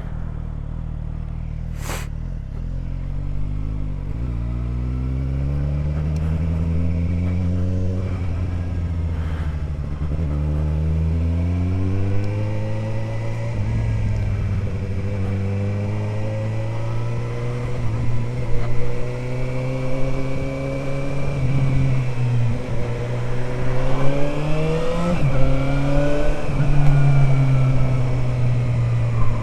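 Suzuki GSR 750 inline-four running through an Ixrace Z7 aftermarket exhaust, heard on board while riding. The engine pitch rises through the revs several times and drops back between pulls, with a busier run of revving and rapid pitch changes near the end. A single sharp click comes about two seconds in.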